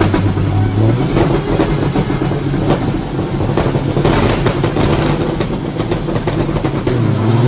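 Racing truck's diesel engine running hard, with many sharp knocks and rattles over the steady low engine sound.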